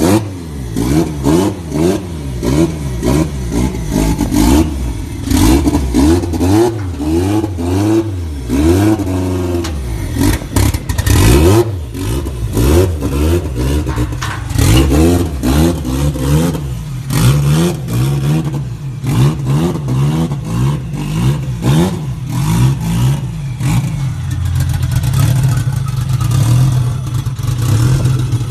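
Car engine just after a cold start, revved repeatedly so the pitch climbs and falls again and again, running rough, then settling into a steadier fast idle over the last few seconds.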